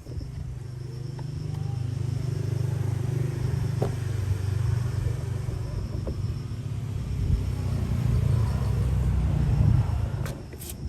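A motor running with a steady low hum, slightly louder after the first couple of seconds and stopping about ten seconds in.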